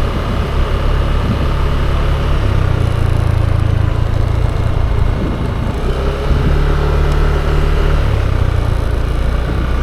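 Yamaha Aerox 155 scooter riding in city traffic: steady low engine and road rumble, the engine note rising about two and a half seconds in and dropping back around six and again near eight seconds.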